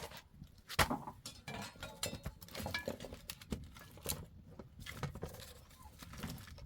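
Irregular light clicks, taps and rubbing of hands working with utensils and wood, with one sharper knock about a second in.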